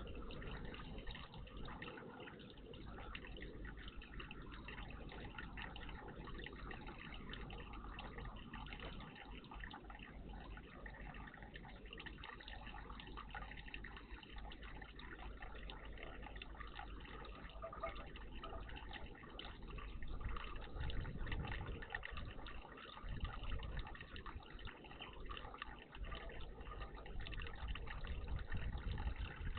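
Water trickling and splashing steadily in a garden bird bath, with uneven low rumbles in the second half.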